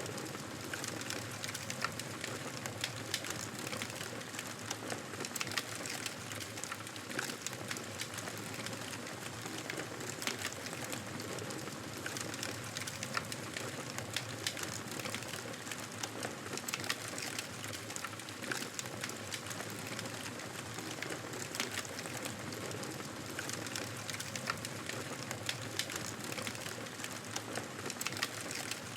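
Wood fire crackling in a fireplace: a steady hiss with many small, sharp pops and snaps.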